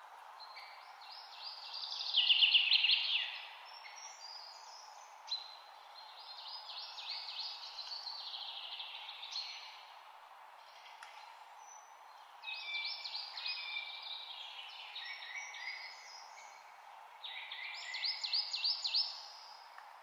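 Songbirds singing: four bouts of quick, rapid-fire chirping phrases, loudest about two seconds in and again near the end, over a steady hiss.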